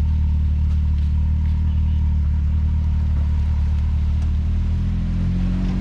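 Side-by-side UTV engine running at a steady idle, its pitch shifting slightly near the end.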